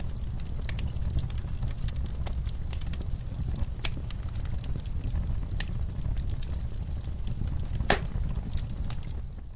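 Wood fire crackling in a fireplace: a steady low rumble of burning logs with scattered sharp pops, the loudest about eight seconds in. The sound dips briefly at the very end.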